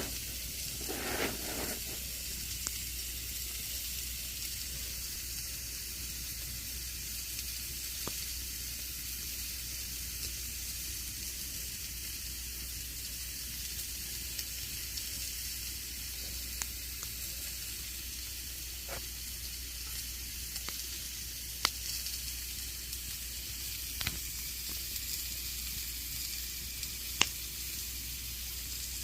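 Campfire burning: a steady hissing with scattered sharp crackles and pops from the burning wood, the loudest pops about two-thirds of the way through and near the end.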